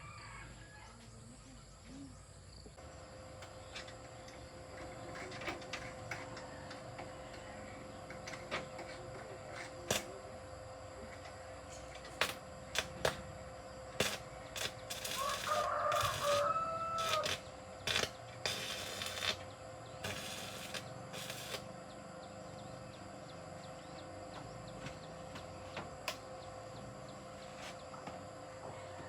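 A rooster crows once about halfway through, over a steady machine hum. Short, louder bursts of hissing noise and sharp clicks come and go around the crow.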